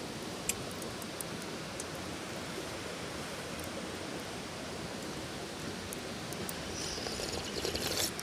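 Small wood fire crackling: occasional sharp pops over a steady hiss. Near the end a louder rustling, scraping noise lasts about a second and a half.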